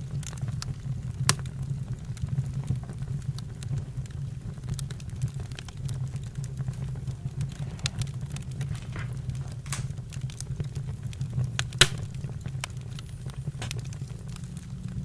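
Campfire crackling: irregular sharp snaps and pops over a steady low rumble, with two louder pops, one about a second in and one near twelve seconds in.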